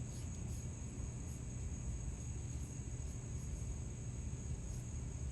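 Steady high-pitched insect chorus over a constant low rumble.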